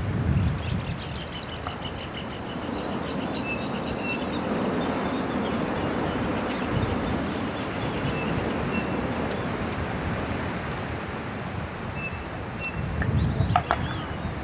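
Outdoor ambience: wind rumbling on the microphone, with a steady insect drone and repeated short insect chirps in the background.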